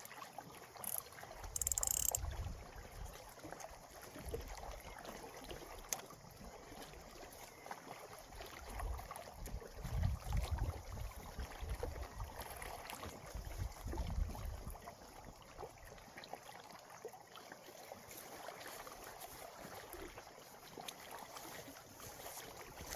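Small waves lapping on the shore, with gusts of wind rumbling on the microphone every few seconds.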